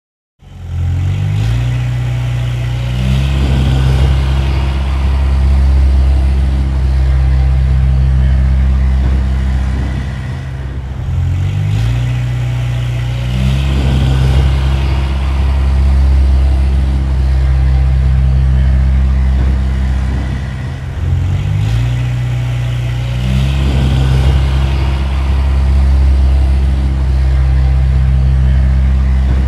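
A heavy engine running steadily with a deep, low note. It rises in pitch briefly three times, about every ten seconds, like a repeating loop of revs.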